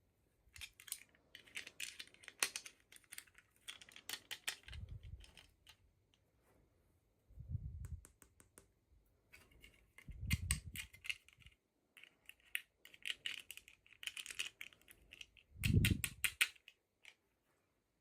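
Packaging and small toy pieces being handled and unwrapped: bursts of rapid clicking and crinkling, with a few soft low thumps.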